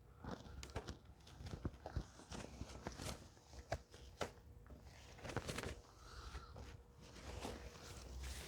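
Faint footsteps with scattered rustles, crinkles and soft clicks as a fabric car cover is handled and pulled over a car.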